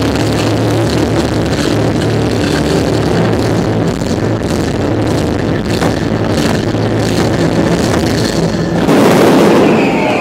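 Music played over loudspeakers to accompany a synchronized fireworks display, with sharp firework bangs and cracks cutting through it. Near the end comes a louder rush of firing.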